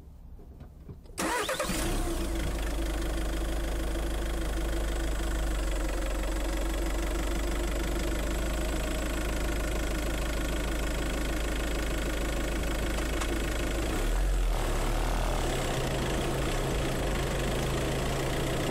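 Car engine heard from a phone strapped to its front bumper: it starts about a second in and idles steadily. About fourteen seconds in the engine note shifts and grows a little louder as the car moves off.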